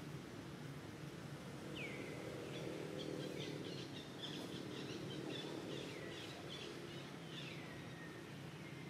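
Birds calling: a short note sliding down in pitch, repeated every second or so, with quicker chirping between about three and six seconds in, over a steady low background hum.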